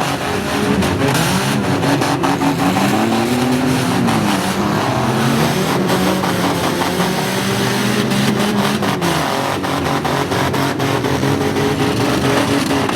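Several demolition derby vehicles' engines revving up and down together, with repeated sharp knocks and bangs of vehicles hitting each other.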